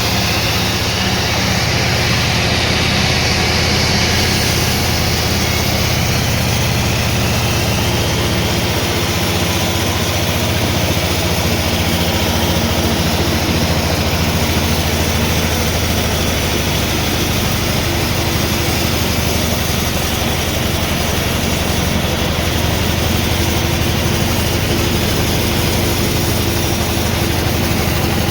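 Sawmill machinery running steadily, with a constant low motor hum under continuous mechanical noise.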